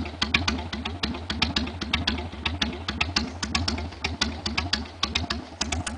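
Harley-Davidson Sportster 883C's air-cooled V-twin idling through a handmade open exhaust, with an uneven beat and irregular sharp cracks several times a second.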